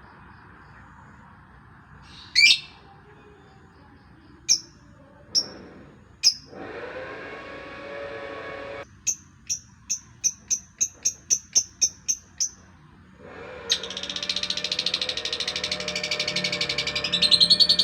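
A songbird calling and singing. It gives a few sharp single calls, then a run of short, evenly spaced high notes at about four a second, and from about three-quarters through a fast, continuous trilling song.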